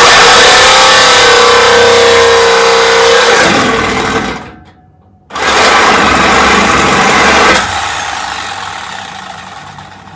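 Corded reciprocating saw (Sawzall) cutting through a truck's exhaust pipe: one loud run of about four seconds that stops abruptly, then a second run after a short pause that tails off near the end.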